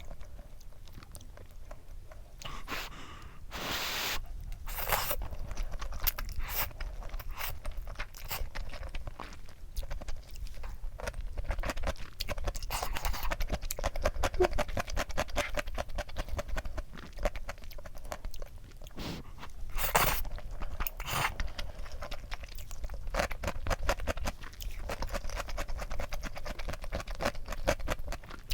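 A person chewing crunchy food close to the microphone: dense, fast crackling crunches throughout, with a few louder sounds about four seconds in and again near twenty seconds.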